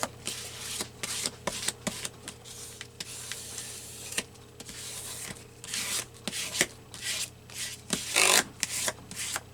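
Paper rustling and rubbing under hands on a work surface in irregular short strokes, with a few light taps; the loudest strokes come near the end.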